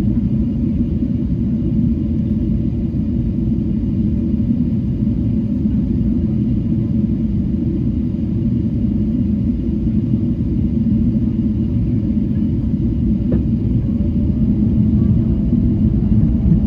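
Boeing 777-300 cabin noise on approach: a steady low rumble of engines and airflow with a few steady hum tones. A faint click about 13 seconds in, after which a faint higher tone comes in and rises slightly.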